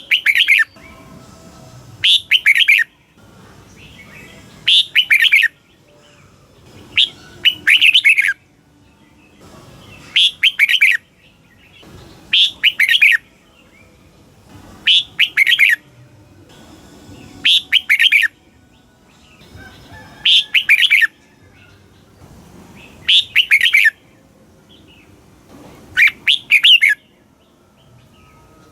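Red-whiskered bulbul singing: short, loud, chirpy whistled phrases repeated about every two and a half seconds, around eleven times, with short pauses between.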